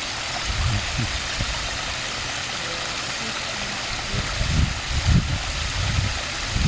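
Steady rushing of running water, with irregular low rumbles about half a second in and again from about four to six seconds in.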